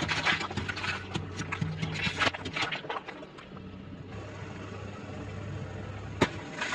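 Crunchy chewing of crisp fried food, close to the microphone: a run of crackling bites for about three and a half seconds, then quieter, with one sharp click near the end. A steady low hum runs underneath.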